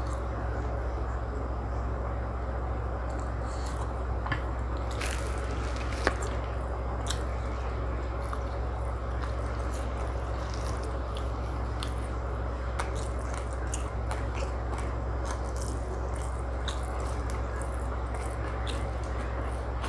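A person eating close to the microphone: chewing and biting food, with scattered wet mouth clicks and smacks, over a steady low hum.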